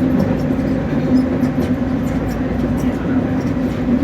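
Nagoya Municipal Subway Higashiyama Line train running through the tunnel, heard from inside the front car: steady wheel and running noise with a low droning tone that swells a little now and then.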